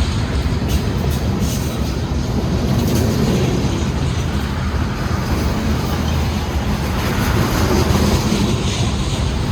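Freight train cars rolling past: a steady rumble of wheels on rail, with a few faint clicks.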